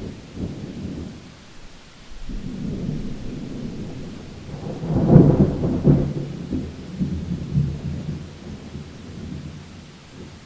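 Thunder rumbling over steady rain: a low roll starts about two seconds in, swells to its loudest crack at about five seconds, then rolls on and fades away near the end.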